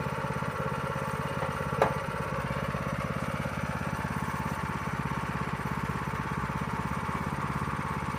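Predator 212 single-cylinder four-stroke engine driving a small pickup, running steadily at high speed with a fast, even chuffing. There is one sharp click about two seconds in.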